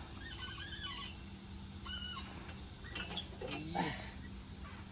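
Faint bird calls, a few short chirping phrases. About three and a half seconds in comes a brief human voice sound with a few small clicks.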